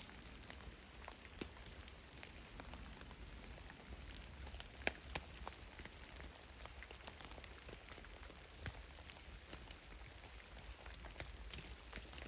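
Drops of meltwater from heavy, melting snow falling in a forest: scattered, irregular drips, with two louder drops close together about five seconds in.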